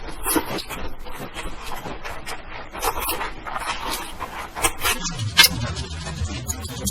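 Close-miked eating sounds of a person chewing Indomie instant noodles: irregular wet clicks and smacks of the mouth. About five seconds in, a low steady hum joins the chewing.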